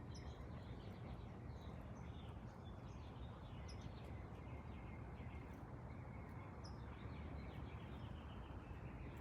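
Small birds chirping, with short high calls scattered throughout, faint over a steady low background rumble.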